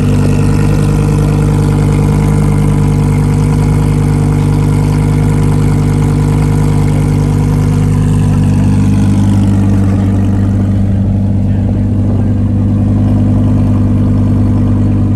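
A car engine idling steadily with an even, deep note; its higher tones drop back a little about ten seconds in.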